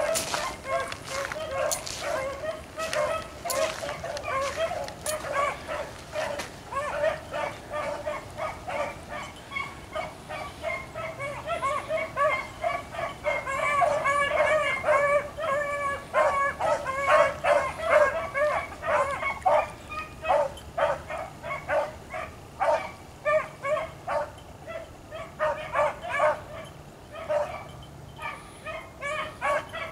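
Pack of beagles baying in quick, repeated yelps while running a rabbit's track: the hounds are on the scent in full cry.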